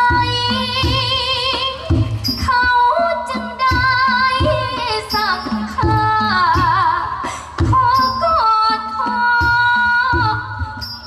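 Music: a singer holding long, wavering notes with wide vibrato over a steady drum beat.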